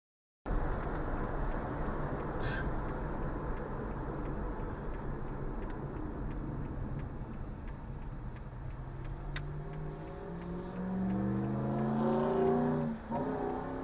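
Car engine and road noise start abruptly. Over the last few seconds the engine's pitch climbs as it accelerates, then drops briefly about a second before the end.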